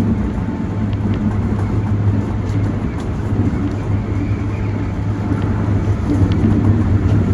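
Keikyu electric train: a steady low hum over an even rushing noise, with a few faint clicks.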